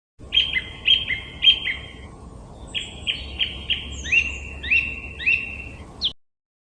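A bird calling in two runs of short, clear whistled notes, each note starting sharply and then holding on one pitch, over a faint low background hum. The recording begins and ends abruptly.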